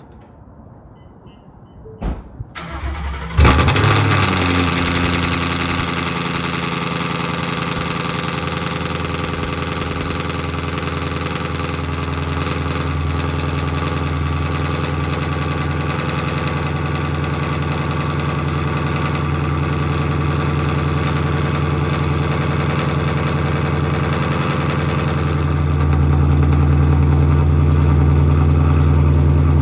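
Ford Mustang cold start after sitting two to three days: a brief crank about two seconds in, then the engine catches with a loud flare and settles into a steady idle. The idle grows louder near the end.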